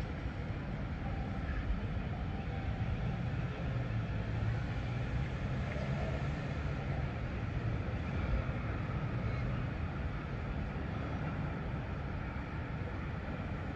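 Steady low rumble of a vehicle, even in level throughout.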